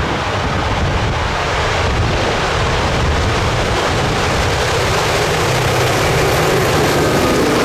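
Wind noise on the microphone, with the low, steady drone of an approaching diesel freight train's locomotives building and growing slowly louder from about two seconds in.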